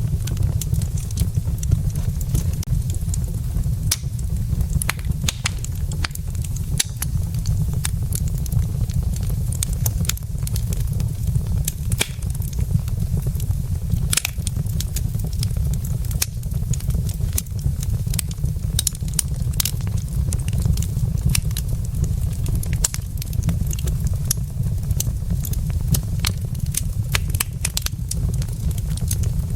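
Wood fire in a fireplace crackling, with irregular sharp pops and snaps from the burning logs over a steady low rumble.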